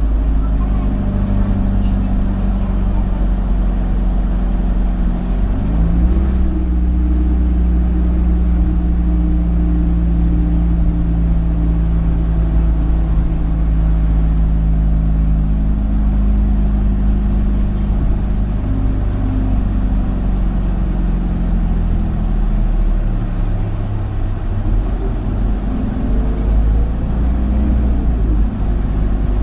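Isuzu Erga city bus diesel engine and drivetrain heard from inside the passenger cabin while driving. The engine note rises about five seconds in, holds steady, falls away after about sixteen seconds, and climbs again near the end, as the bus accelerates and slows in traffic.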